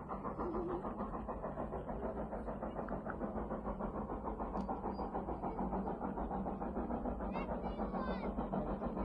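Train running past with a steady, fast rhythmic rumble. A few short, high falling squeals come near the end.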